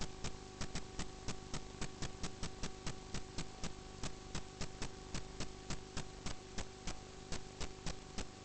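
Steady, regular mechanical clicking, about three to four clicks a second, over a constant electrical hum.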